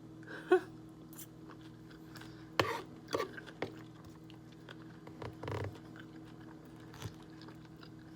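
A person chewing and eating, with a few short clicks and smacks scattered through, over a steady low hum.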